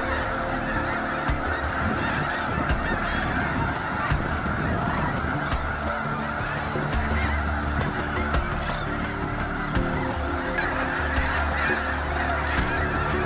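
A huge flock of snow geese calling all at once, a dense, unbroken din of overlapping honks.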